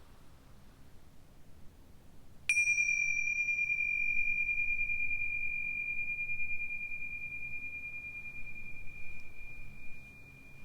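A meditation chime struck once, about two and a half seconds in: a single high, pure ringing tone that fades slowly over about eight seconds, marking the close of the silent meditation.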